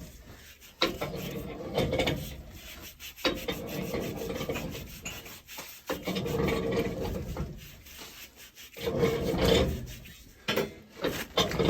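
Repeated rasping, rubbing strokes by hand, several long strokes of about two to three seconds each with short breaks between.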